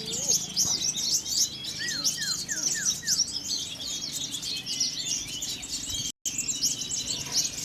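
Many caged songbirds singing together at a bird-song contest: a dense mix of high chirps and trills. About two seconds in comes a quick run of five downward-sweeping whistles. The sound cuts out for a moment just after six seconds.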